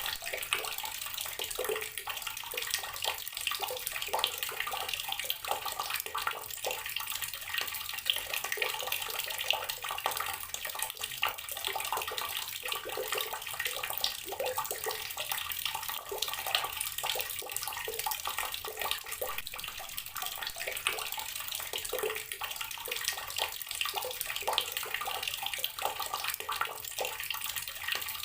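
Water running steadily from an outdoor tap and splashing, with a constant dense hiss and many small spattering splashes.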